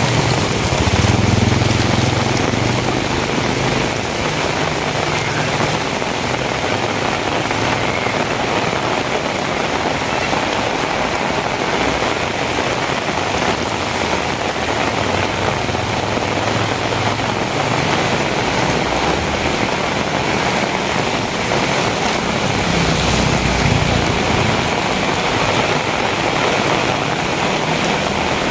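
Heavy rain falling steadily as a dense, even hiss, with a low rumble swelling about a second in and again near the end.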